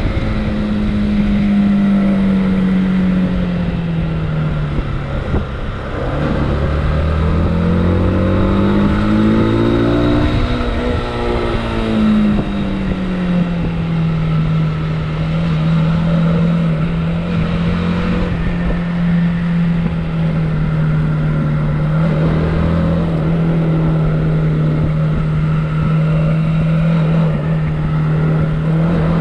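Motorcycle engine running while riding. Its pitch drops about five seconds in, climbs again to a peak around ten seconds, then settles to a steady note for the rest, over a constant rushing noise.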